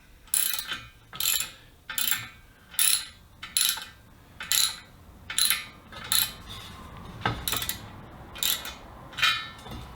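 Ratchet wrench clicking in short, repeated strokes, about a dozen of them, as it draws down the nut on a heavy-duty steel clamp-in valve stem, squeezing the rubber grommet inside the wheel rim.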